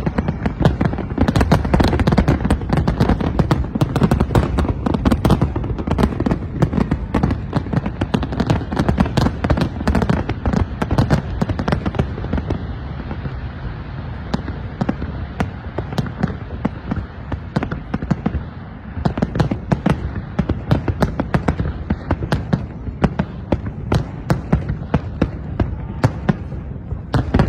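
Fireworks and firecrackers going off in a dense, continuous rattle of rapid cracks and bangs, easing briefly about two-thirds of the way through before picking up again.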